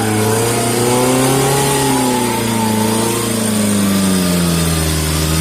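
Suzuki Jimny 4x4's engine revving, its pitch rising and falling for a few seconds, then dropping to a lower, steadier note near the end.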